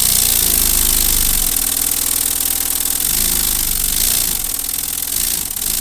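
Lego pneumatic inline-4 turbo engine running on compressed air: a rapid mechanical chatter with a strong hiss of exhausting air, its speed rising and falling several times.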